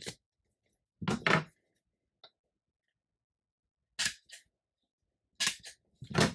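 Tiny Attacher mini stapler snapping shut on stacks of paper: several sharp clicks, the loudest about a second in, with pairs of clicks around four and five and a half seconds in.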